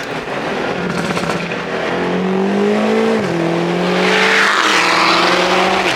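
Car engine under hard acceleration, heard from inside the car. Its pitch climbs steadily and drops sharply at upshifts about three seconds in and again a second and a half later, with rising wind and road noise.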